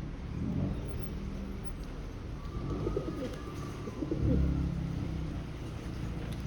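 Feral pigeons cooing in low, throaty phrases, with bursts about three seconds in and again around four seconds in.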